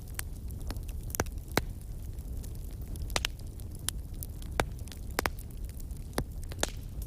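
Wood fire burning in a fireplace: a steady low rumble of the flames with sharp crackles and pops at irregular intervals, about a dozen in all, the loudest one a little after halfway.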